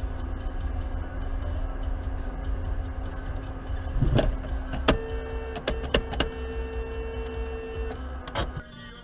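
Steady low rumble of a moving car heard from inside through a dashcam, with a sharp bang about four seconds in, a few quick clicks, a steady tone held for about three seconds, and another knock near the end before the rumble cuts off.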